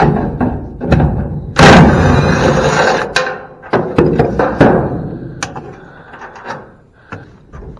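Metal clanking, banging and thudding as heavy parts are shifted and dropped, with a long loud scraping clatter between about one and a half and three seconds in, then scattered knocks that die away.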